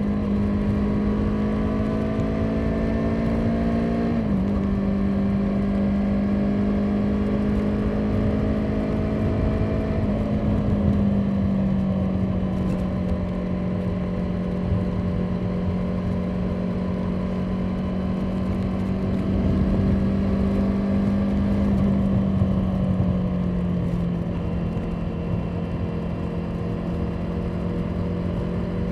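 Motorcycle engine running steadily under way, its pitch creeping up and then dropping sharply about four seconds in, like a gear change, then holding nearly level with a slight fall later on. A steady low wind rumble lies under it.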